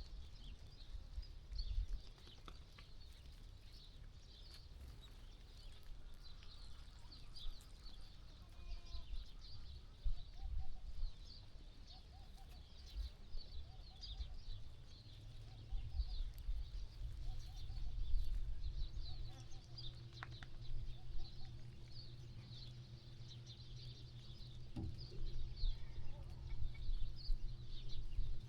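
Farmyard ambience dominated by many small birds chirping continuously, over a low rumble. A faint steady hum joins about halfway through.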